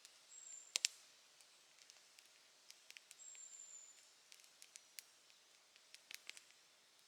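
Wood campfire crackling quietly, with irregular sharp pops and ticks, a louder double pop a little under a second in. Two brief, high, thin whistling tones sound near the start and around three seconds in.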